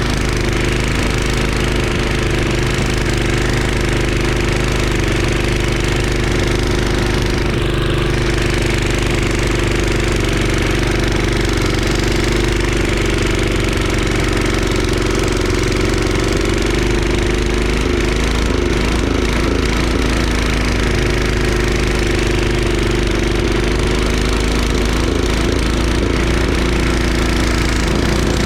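Craftsman 22-inch snowblower's 5 hp engine running steadily under load. Its pitch wavers briefly about two-thirds of the way through and again near the end.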